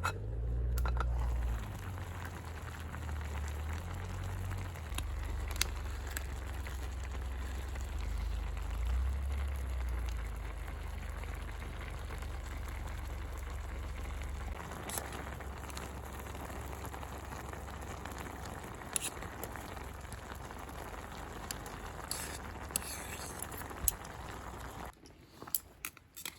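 Miso-nikomi udon broth bubbling at a steady boil in a pot over a campfire, with a few sharp crackles from the fire and a low rumble in the first half. The sound cuts off suddenly near the end.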